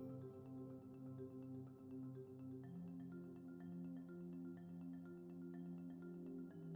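Quiet background music led by a marimba-like mallet instrument, playing a gentle, steady pattern over held low notes.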